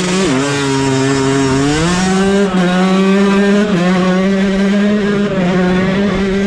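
Dirt bike engine running at high revs, close by: the pitch dips early, climbs back about two seconds in, then holds with small changes.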